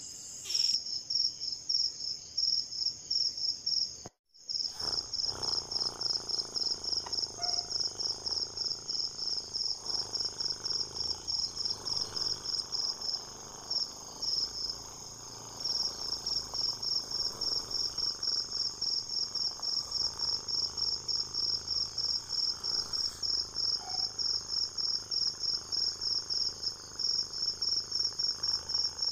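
Insect chirping steadily in a high, evenly pulsed trill of about four chirps a second, with a brief break about four seconds in.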